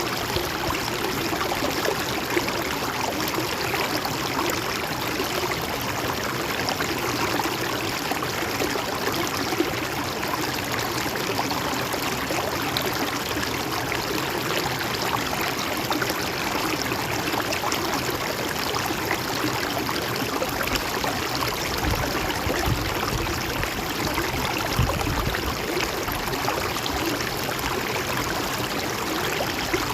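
A river stream flowing steadily over stones, with a constant rush and small trickling splashes. Brief low rumbles come in about two-thirds of the way through.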